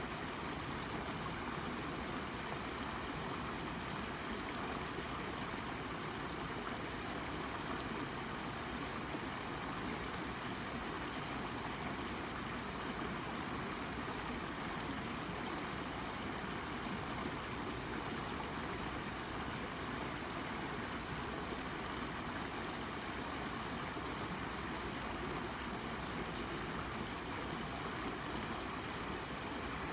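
Small brook babbling and gurgling steadily as the water runs over and around a rock.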